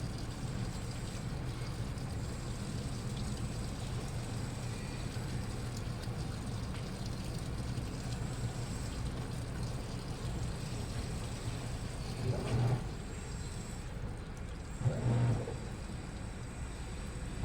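Washing machine running: a steady low hum with water noise. Three short louder swishes come in the last few seconds.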